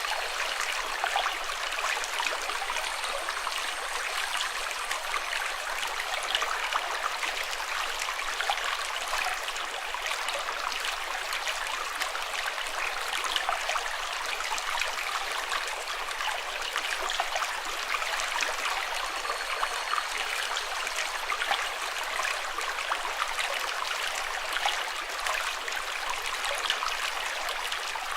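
Water flowing steadily, like a small stream running over stones: an even, bright splashing hiss with fine crackles and little deep rumble.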